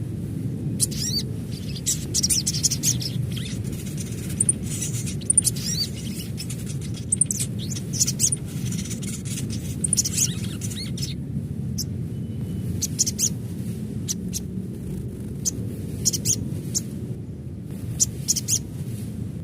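Sogon sunbird calling: clusters of rapid, sharp, high-pitched chirps and trills with a short pause midway, over a steady low hum.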